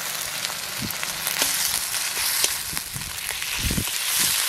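Browned onions and freshly added ginger-garlic paste sizzling in hot oil, a steady hiss with scattered clicks and a few low knocks.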